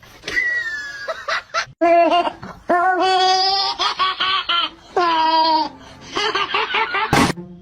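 High-pitched laughing in a string of drawn-out, wavering bursts.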